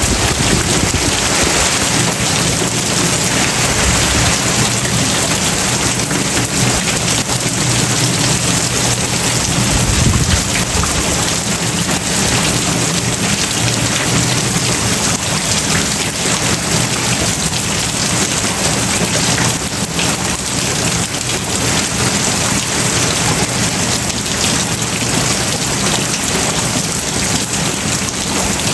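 Heavy tropical rain pouring down steadily, hitting surfaces in a dense, continuous hiss, with a brief low rumble about ten seconds in.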